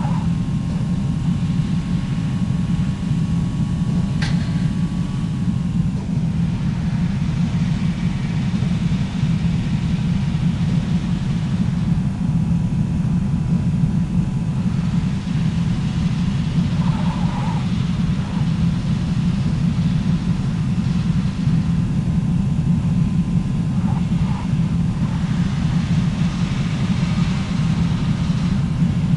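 Steady low rumble of a vehicle in motion, as heard from inside the cabin, with a single sharp click about four seconds in.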